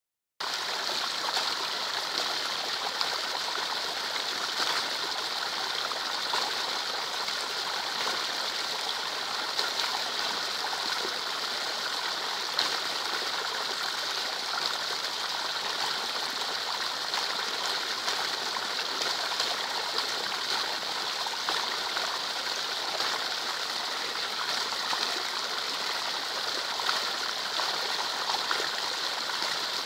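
Rain falling into a puddle: a steady hiss of drops splashing on the water, with many small splats through it, starting a moment in.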